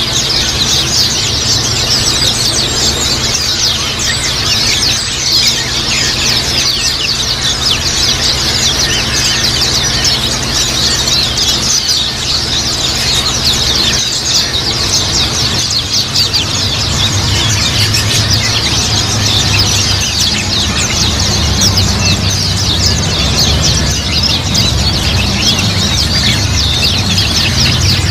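A flock of white-eyes (pleci) twittering together: a dense, unbroken stream of rapid high chirps from many birds at once, over a low steady hum that grows a little stronger in the second half.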